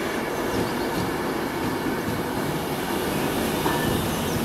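Virgin Trains passenger train running past along the platform: a steady, even noise of its wheels on the rails.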